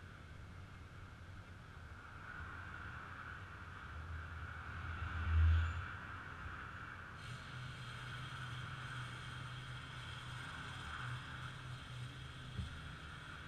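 Heavy diesel truck engine running, with a steady whine over a low rumble. About five seconds in, a brief louder low surge; from about seven seconds in, higher steady tones join as the machinery works.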